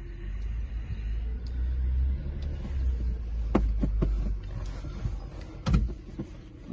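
The 2008 Ford Edge's V6 engine running with a low rumble as the car is put into reverse to back down off the ramps, with several sharp clicks and clunks in the second half.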